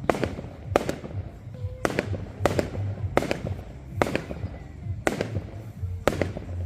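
Fireworks going off in a display: a run of sharp bangs from bursting shells, about ten of them at uneven gaps of roughly half a second to a second, over a low rumble.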